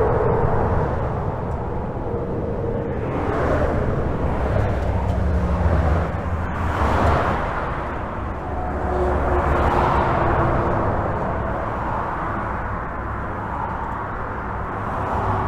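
Steady highway traffic heard from under a bridge: a continuous rumble and tyre noise, swelling and fading every few seconds as vehicles pass overhead or close by.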